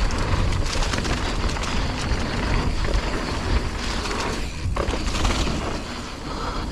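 Mountain bike rolling down a dirt trail: wind rumbling on the helmet camera's microphone, with tyre noise over dirt and leaves and the bike clattering over bumps.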